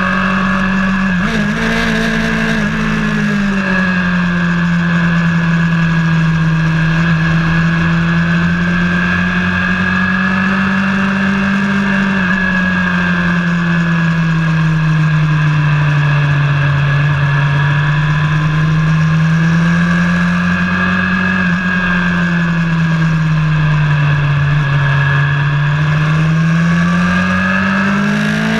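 A vehicle engine running hard during track laps, held at fairly steady high revs. Its pitch rises and falls slowly over several seconds at a time, with no gear-change breaks.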